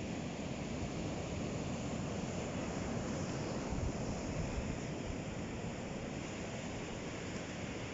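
Ocean waves breaking and washing on the shore in a steady rumbling wash, swelling slightly about halfway through, with some wind on the microphone.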